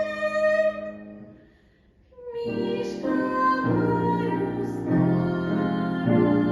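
A female singing voice holds a final note over piano and fades away into a brief near silence. Then the piano starts again alone, playing a slow series of chords that change about once a second.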